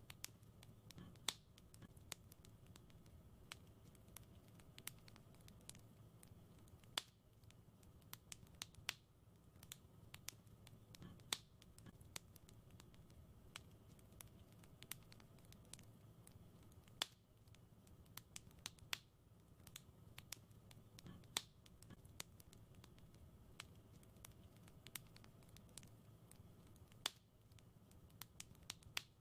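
Wood fire crackling in a fireplace: irregular sharp pops and snaps, a few of them much louder, over a soft low rumble of the burning fire.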